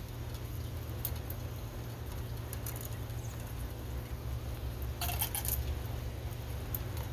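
Small clicks and rattles of tools and parts being handled, a few faint ones about a second in and a denser cluster past the middle, over a steady low rumble.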